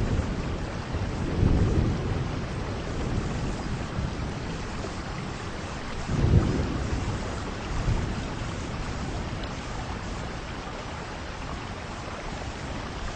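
Heavy rain pouring steadily with wind, and low rumbles of thunder rolling in about a second and a half and six seconds in, the second the loudest, before dying away under the rain.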